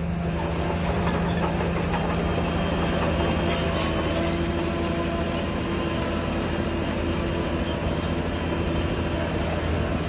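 Heavy diesel earthmoving machinery running steadily, its engine note holding level.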